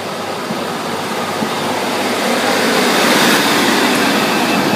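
A Class 143 Pacer diesel multiple unit running into the platform, its engine and wheel noise growing steadily louder as it approaches.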